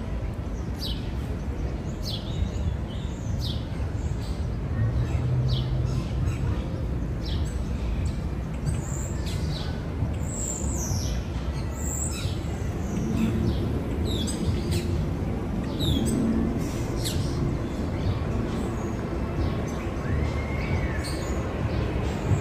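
Birds chirping over and over, short high notes that slide down in pitch, heard over a steady low background rumble.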